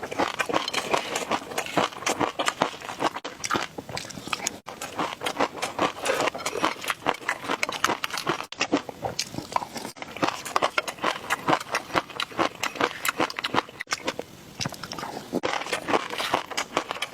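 Close-miked ASMR eating: rapid crackly biting and chewing of food, with a few brief pauses.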